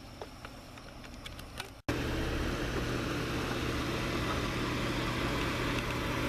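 A few faint clicks, then after a cut the steady sound of a Mercedes E500's V8 engine running at a constant speed with an even low hum, without revving.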